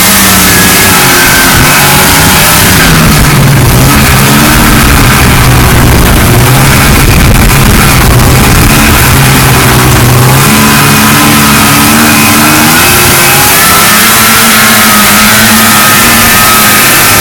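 1979 Ski-Doo Blizzard 5500 snowmobile's two-stroke engine running loud under way on a trail, its pitch rising and falling with the throttle: held steady through the middle and dropping off about ten seconds in.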